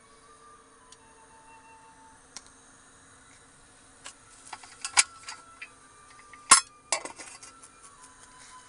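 A run of light clicks and clinks, like dishes or utensils being handled, with two sharp louder knocks about five and six and a half seconds in, over faint soft background music.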